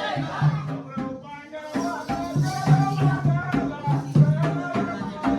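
Live Jakhadi folk music: a singing voice over a steady beat of hand drum and jingling percussion. The music dips briefly about a second in, then picks up again.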